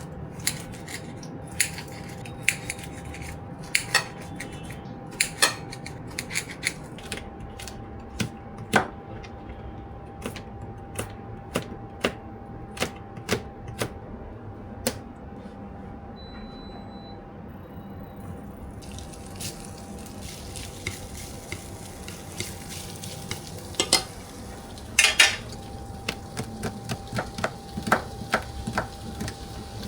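Kitchen utensils and dishes clinking and clattering during food preparation: scattered short knocks and clinks, busier near the end, over a faint steady hum.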